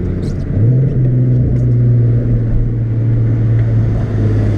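Nissan 370Z's 3.7-litre V6 engine running while driving, its note rising a little about half a second in and then holding steady.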